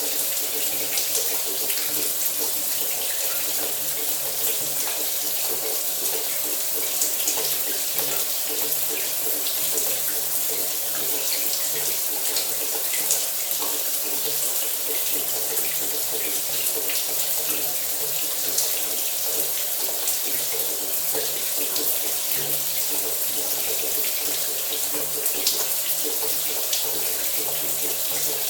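Shower water running steadily: an even, bright hiss of spray, with small scattered spatters as droplets strike.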